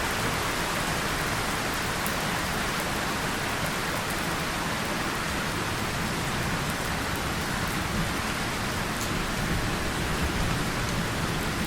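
Steady rain falling on a tin surface and leaves: an even, unbroken hiss with scattered sharp ticks of single drops.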